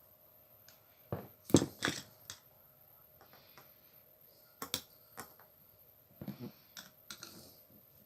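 Scattered clicks and knocks of tools and small metal grinder parts being handled during reassembly, in two short clusters with a few single taps between them.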